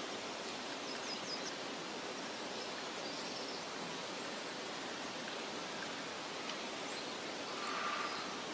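Outdoor meadow ambience: a steady soft hiss of wind, with a few faint, short, high bird chirps about a second in and again around three seconds, and a brief slightly louder call near the end.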